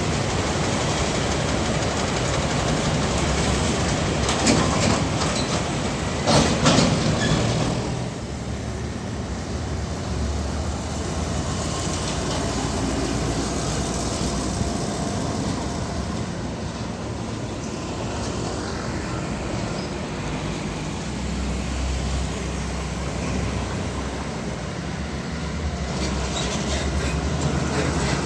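Heavy road traffic, mainly large diesel trucks driving past, with steady engine and tyre noise and a cluster of loud rattling knocks about four to seven seconds in.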